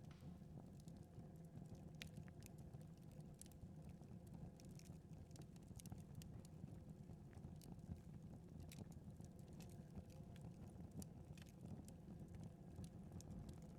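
Faint crackling of a wood fire in a fireplace: irregular small snaps and pops over a low, even background noise.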